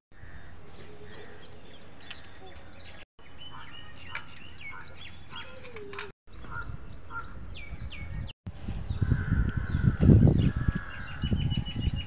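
Small birds chirping repeatedly in short, downward-sweeping calls, with the audio cutting out briefly three times. From about nine seconds in, a loud, irregular low rumble on the microphone dominates the birdsong.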